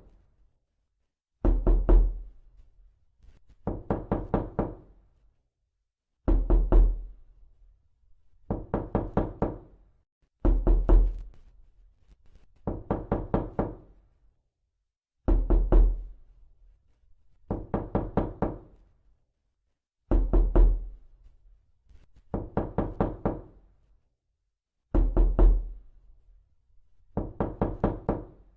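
Repeated knocking: short runs of about five quick knocks, one run every two seconds or so, with silence in between.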